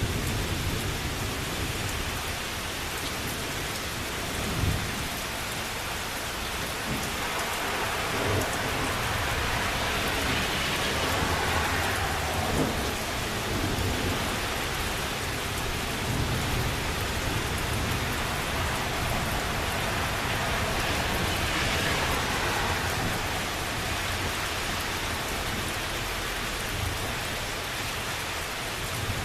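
Steady rain hissing during a thunderstorm, with low rumbles of thunder rising and fading underneath.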